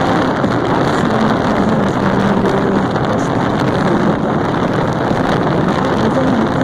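Motorcycle engine running at speed on the road, mostly covered by a loud, steady rush of wind over the microphone.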